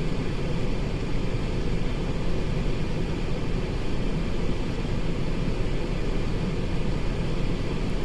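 Steady low rumble of the 2008 Cadillac SRX's 3.6 L V6 running, heard from inside the cabin.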